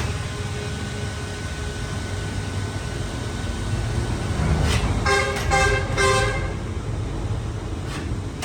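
A horn sounds about three short toots over a steady rumble of engine or traffic noise.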